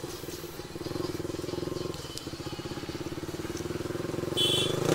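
Motorcycle engine running at low revs with an even, fast pulsing beat, the bike crawling through a crowd. A brief high-pitched beep cuts in near the end.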